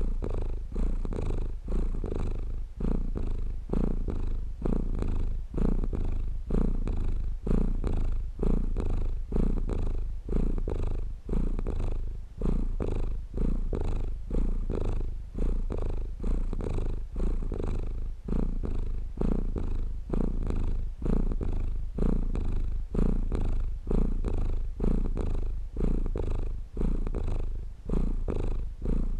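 Domestic cat purring close up, pulsing in an even rhythm with its breathing.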